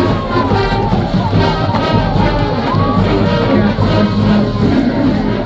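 Marching band brass, trumpets and trombones, playing loudly, with crowd noise underneath.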